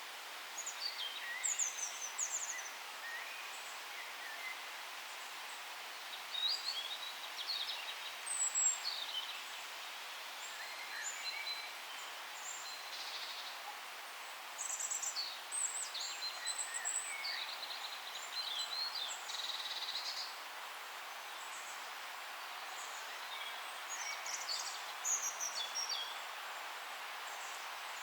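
Several songbirds chirping and trilling in short high-pitched phrases, in scattered bursts over a steady background hiss of forest ambience.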